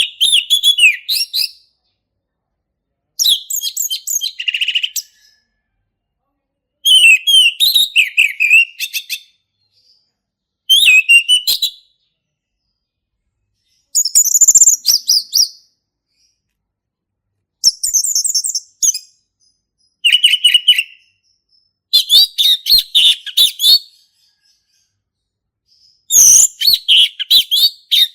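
Male orange-headed thrush singing its loud, full song: about nine short phrases of rapid, varied whistled notes, each a second or two long, separated by pauses.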